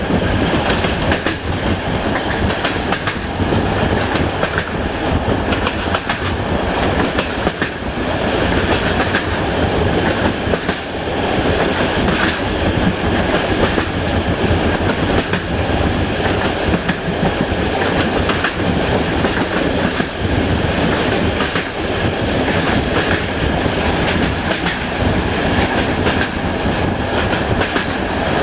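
Passenger train running along the line, heard from a coach window: a steady rumble of the wheels with clickety-clack over the rail joints.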